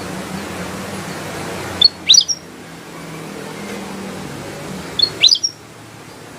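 A kutilang emas bulbul gives two short calls, one about two seconds in and one about five seconds in. Each call is a quick burst of a few sharp, rising and falling whistled notes. They sit over a steady background hiss and low hum.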